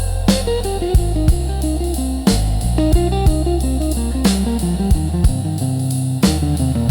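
Slow blues instrumental passage without vocals: guitar playing single-note lines that step downward, over a steady bass and drums.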